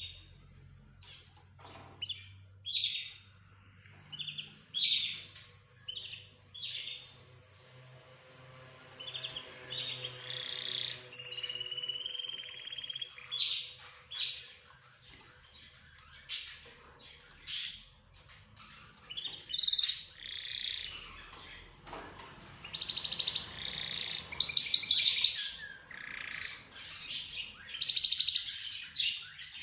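A mixed group of cage birds, budgerigars, lovebirds, zebra finches and a canary, chirping and calling over one another in short high chirps, with a drawn-out whistle about a third of the way in and a fast trill of rapid notes past the middle.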